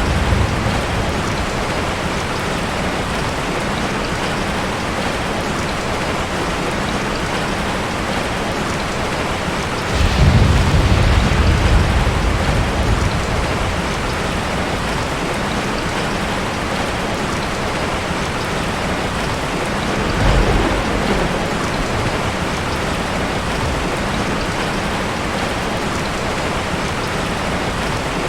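Heavy rain pouring steadily on a metal tin roof, with thunder rumbling twice: a longer roll about ten seconds in and a shorter one about twenty seconds in.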